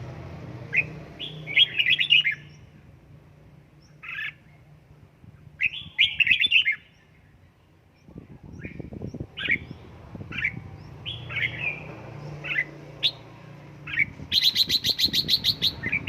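Red-whiskered bulbul calling: short sharp chirps and brief warbled song phrases, then a fast run of rapid repeated notes shortly before the end.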